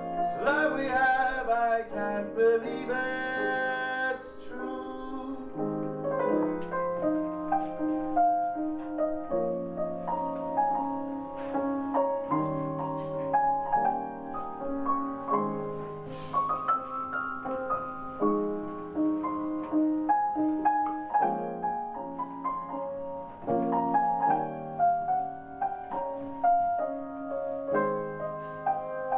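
Live band playing an instrumental passage: sustained keyboard chords with a melody line over them, the chords changing every second or two. A voice holds a wavering note in the first few seconds.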